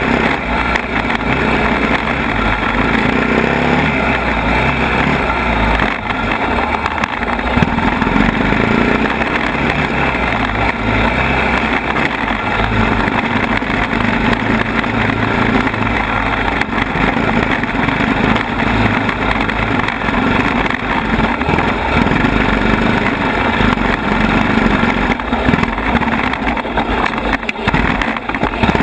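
ATV engine running under changing throttle while riding a rough trail, heard from on board. The engine note shifts up and down, and short knocks and rattles come through now and then.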